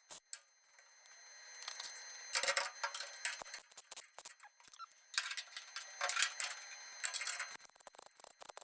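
MIG welder crackling in two short bursts, one about two seconds in and a longer one past the middle, with scattered sharp ticks between them, as the welds go onto the car's sheet metal.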